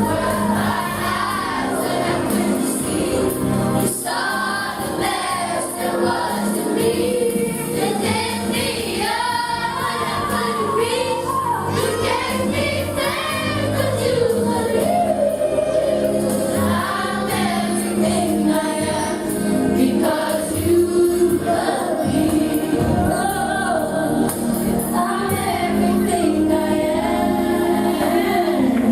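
Church choir singing a gospel hymn, with instrumental accompaniment.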